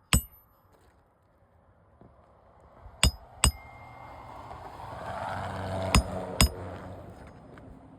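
Hammer strikes ringing on metal while nails are worked out of roof shingles: one blow at the start, then two quick pairs about three and six seconds in. A low rumble swells and fades behind the second pair.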